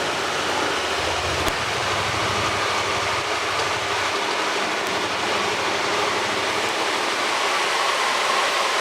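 Swollen river rushing steadily under a bridge, running high with runoff after heavy rain. A faint low rumble under it fades out about four seconds in.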